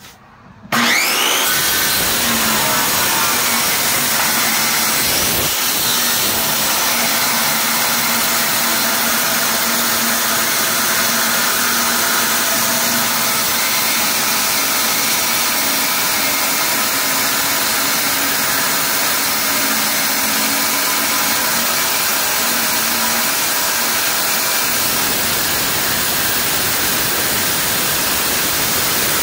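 Drill Master circular saw spinning up about a second in, then running steadily as its metal-cutting blade cuts into half-inch metal plate. Most of the blade's teeth are damaged from having been run backwards, so it cuts only slowly.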